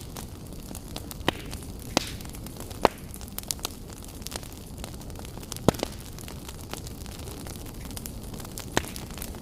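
Wood fire burning in a fireplace: a steady low rumble of flames with irregular sharp crackles and pops, the loudest snaps about a second in, at two and three seconds, and near the middle.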